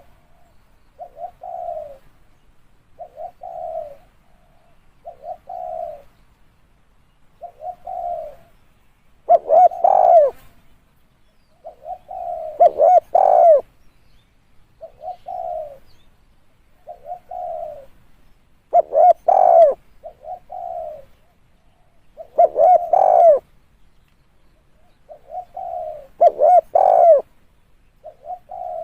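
Spotted dove cooing: a run of repeated coo phrases, softer short coos between louder, fuller ones that come every three or four seconds. It is a calling dove of the kind used as a decoy call to lure wild spotted doves.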